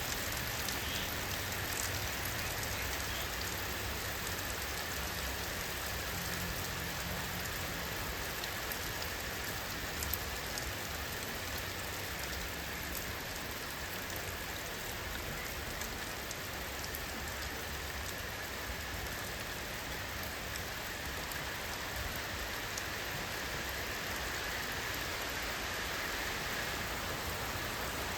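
Steady rainfall, drops pattering on a surface, with a continuous even wash of water noise.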